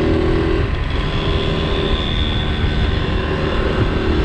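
Small vintage Honda motorcycle engine running while riding, mixed with wind noise. Its strong steady note fades about half a second in and comes back near the end.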